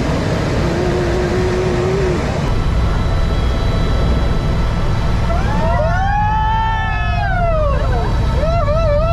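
Helicopter engine and rotor noise inside the cabin at takeoff. Passengers let out a long rising-and-falling scream about six seconds in, and a shorter wavering one near the end.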